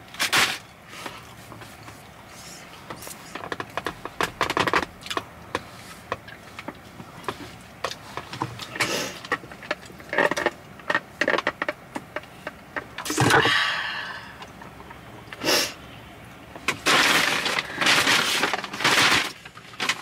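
Close-miked eating noises: chewing and mouth sounds with scattered crackles and crinkles. Near the end come several sniffles.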